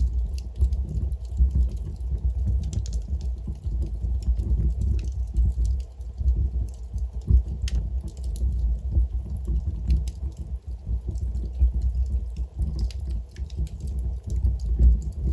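Wood fire burning in a fireplace: a steady low rumble of flames with irregular crackles and pops from the burning logs, one sharper pop a little past halfway.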